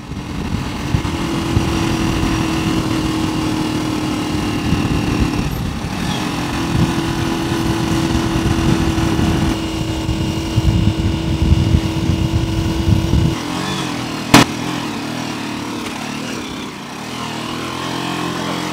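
A small motorcycle engine running steadily, its note easing off about thirteen seconds in. A single sharp knock comes shortly after.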